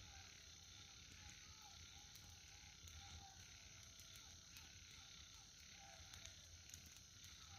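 Faint outdoor ambience: a steady high insect hum with short repeated animal calls, and scattered faint crackles from a campfire.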